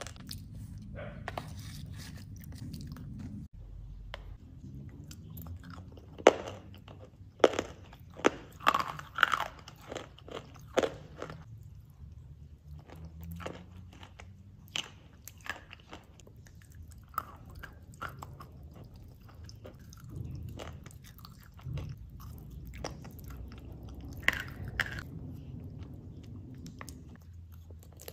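Close-miked eating sounds: biting and chewing a thick, creamy food off a spoon, with wet mouth sounds and bursts of sharp crunching, thickest about six to eleven seconds in and again near twenty-four seconds.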